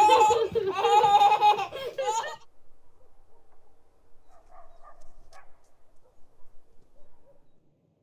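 Small children laughing and squealing, cutting off abruptly about two and a half seconds in, then only faint scattered sounds.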